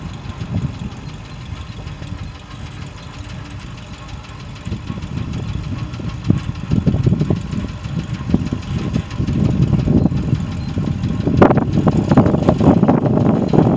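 Ford grain truck engine running at idle, with wind gusting on the microphone and growing louder near the end.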